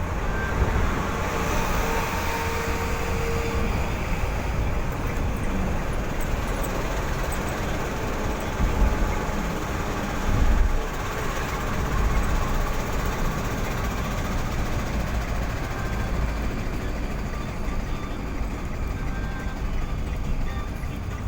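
Steady rumble of a moving road vehicle, engine and tyre noise, with a couple of louder bumps about halfway through.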